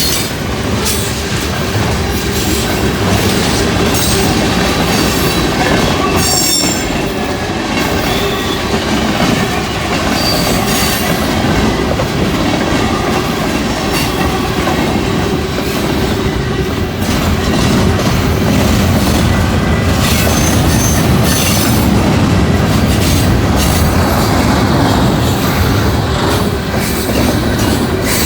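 A freight train's boxcars rolling past at speed on a curve: a steady rumble of steel wheels on rail with a run of rapid clicks, and brief high wheel squeals a couple of times.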